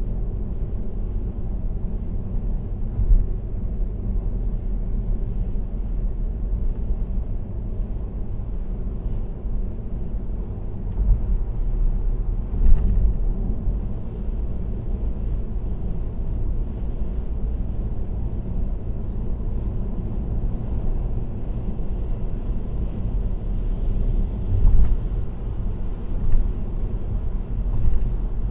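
Steady low rumble of road and engine noise from a car cruising on an expressway, with a few brief louder bumps along the way.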